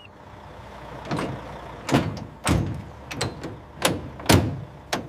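Low rumble of a truck running, with a series of sharp clunks and knocks over it: four loud ones from about two seconds in and a few lighter ones between.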